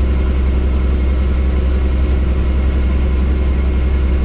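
Helicopter cabin noise: a loud, steady low drone of the rotor and turbine engine, with a steady higher whine over it.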